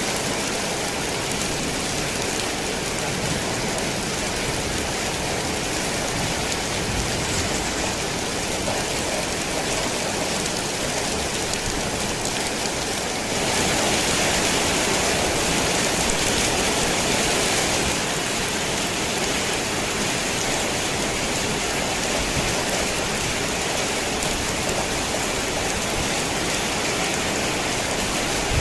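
Heavy rain drumming on a tin roof, a steady dense hiss that grows louder for about four seconds around the middle.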